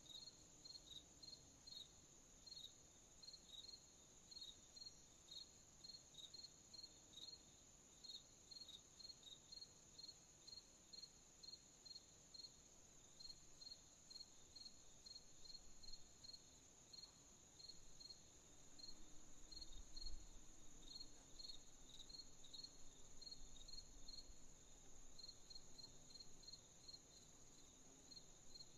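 Crickets chirping at night, faint: one cricket's short chirps at about two a second, pausing now and then, over a steady high trill of other insects. There is a brief low thump about twenty seconds in.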